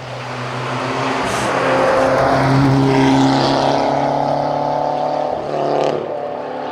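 Fiat Uno hillclimb race car driving past at high revs, its engine held at a nearly steady pitch as it grows louder to a peak about three seconds in, then fades a little as it moves away.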